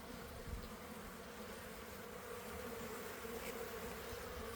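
Honeybees buzzing around an opened hive during an inspection: a steady, even hum.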